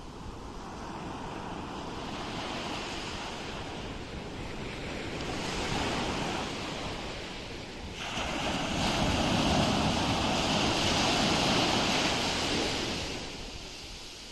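Ocean waves washing onto a shore, a smaller surge about five seconds in and a louder wave breaking about eight seconds in that fades out near the end.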